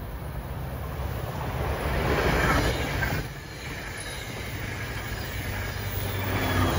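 NJ Transit commuter train passing at speed, its passenger cars' wheels rushing and clattering over the rails, with a faint falling whine midway. Near the end the F40PH-2CAT diesel locomotive pushing at the rear comes by, and its engine drone joins the wheel noise.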